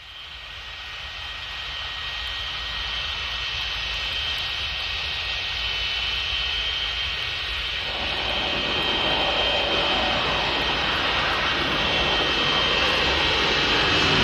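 Aircraft engines droning and growing steadily louder, as an airplane approaches, with a steady high whine running through the noise.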